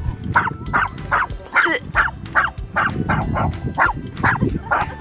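A chihuahua barking in a rapid, steady run of high, short yaps, about two a second, at a larger dog that is trying to make friends with it.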